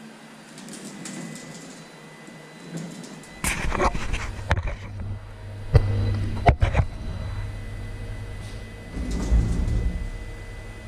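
CNC lathe machinery setting in with a low steady hum about three seconds in, with several sharp clicks and clunks, as the tool is moved into position.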